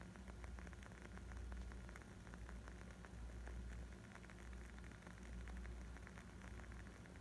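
Wood fire crackling: many small, irregular pops and snaps over a low, steady rumble.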